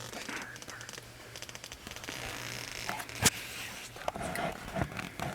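Rustling and scraping of clothing or gear, with small scattered clicks and one sharp click about three seconds in, the loudest sound.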